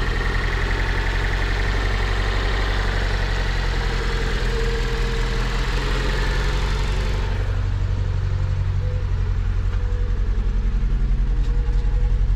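Mk1 Fiat Punto's four-cylinder petrol engine idling steadily on a cold start, with new spark plugs and the HT leads put back in the right firing order to cure a misfire. About seven seconds in, the higher part of the sound falls away.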